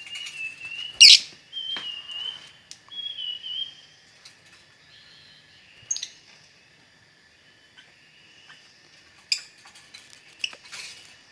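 Lovebirds chirping and squawking: warbling high chirps in the first few seconds with one loud, sharp call about a second in, then a quieter stretch broken by a few short, shrill calls.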